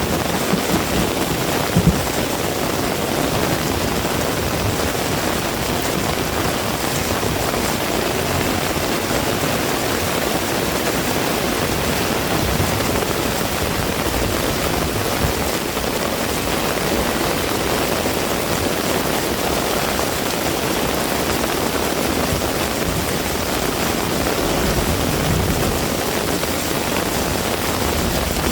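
Heavy rain falling steadily, an even hiss without a break, with a few brief low thumps in the first two seconds.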